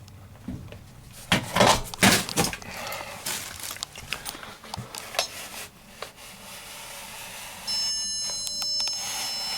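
Hard knocks and clatter from handling a horseshoe shelf anchor against the wall, then near the end an electronic stud finder gives a steady high beep, the signal that it has found a stud.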